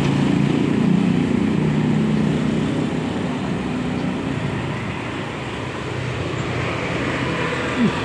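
A motor vehicle engine runs steadily, fading over the first few seconds and leaving a steady background hum. A brief short sound comes just before the end.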